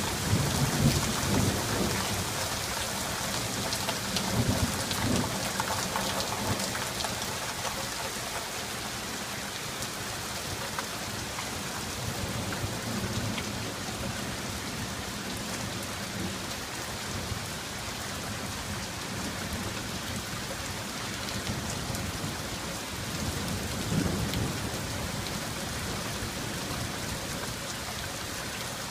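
Heavy rain falling steadily, with rolling thunder rumbling in the first few seconds and again near the end.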